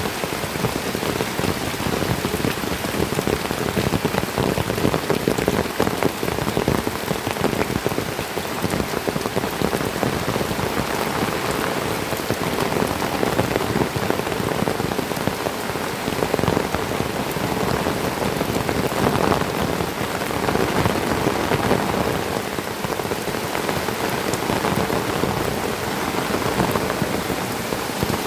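Heavy tropical rain falling steadily, a dense patter of countless drops with no let-up.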